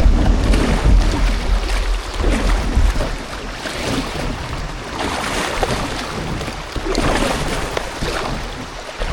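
Rushing water of a river chute, with wind buffeting the microphone, heaviest in the first few seconds.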